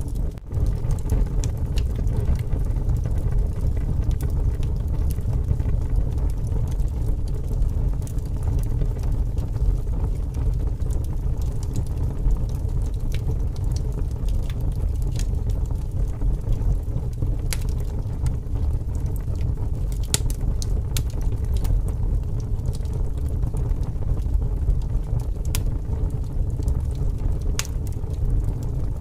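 Wood bonfire crackling, with scattered sharp pops, over a steady low rush of strong wind.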